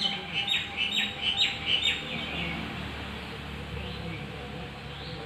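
A pet ringneck parakeet chirps in a rapid series of short, sharp calls, about three a second, which stop about two seconds in. A few fainter calls follow.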